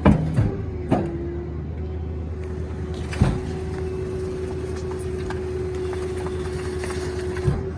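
Garbage truck running, with a steady hydraulic whine from the packer that starts about a second in and stops near the end. Several sharp knocks and thumps come at the start, about a second in, about three seconds in and near the end, as the packer works a king size mattress.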